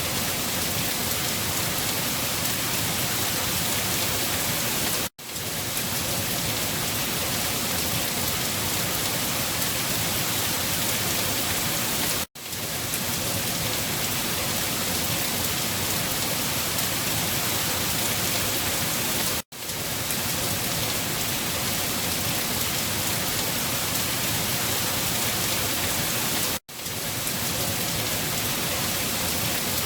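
Steady rain, an even hiss, cutting out for an instant about every seven seconds and fading straight back in, four times.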